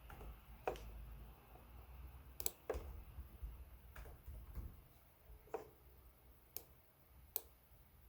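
Lenovo Legion 5 Pro laptop keyboard being typed on sparsely: separate key clicks at irregular intervals with pauses between them, a few sharper and louder than the rest, over a faint low hum.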